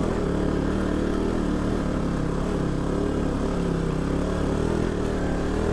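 Single-cylinder motorcycle engine running steadily at low, even revs while the bike is ridden along a rough off-road track, heard from the rider's helmet, with slight rises and falls in pitch.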